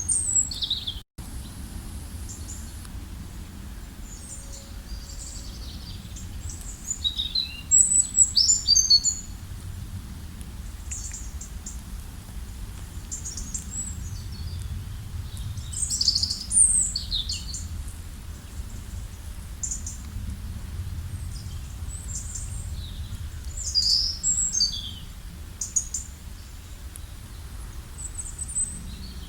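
Several songbirds chirping and calling in short, quick high notes, some sliding down in pitch, over a steady low background rumble. The birdsong comes in busier flurries a few times and the audio drops out briefly about a second in.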